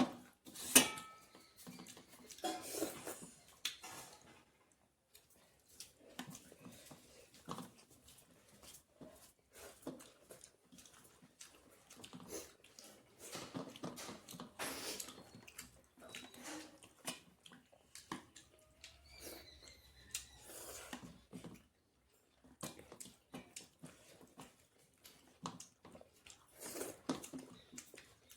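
Close-up eating sounds: chewing, with irregular short clicks and scrapes from the plate as the meal is eaten.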